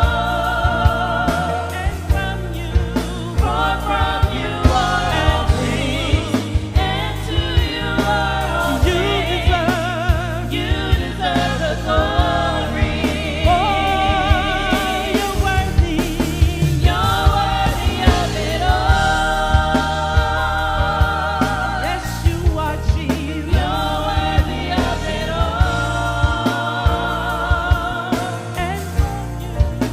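Live gospel worship music: voices singing with wavering vibrato over a band with regular drum strikes.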